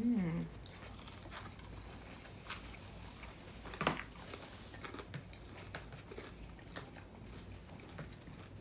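People eating, close to the microphone: quiet chewing and biting sounds with small mouth clicks, and a sharper click about four seconds in. A short hummed "mm" comes right at the start.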